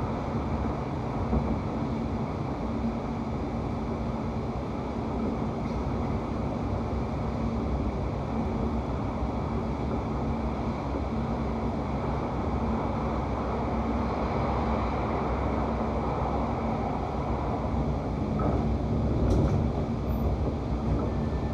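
Steady rumble and low hum inside a London Overground Class 710 electric train carriage, with a brief sharp click near the end.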